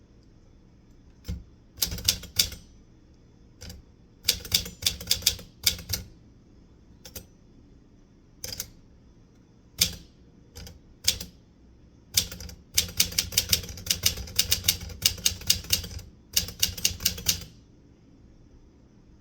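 Typewriter keys striking in bursts: scattered single keystrokes and short quick runs separated by pauses, then a long fast run of typing over several seconds near the end.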